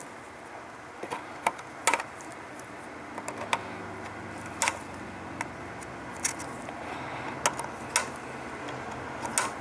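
Flush-cut snips clipping off capacitor leads on the solder side of a circuit board: a series of sharp, irregular clicks, each lead snapping as it is cut.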